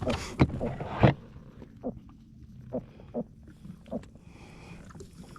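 Freshly caught gurnard making a run of short grunts, about two a second, after a couple of sharp knocks as the fish is handled in the first second.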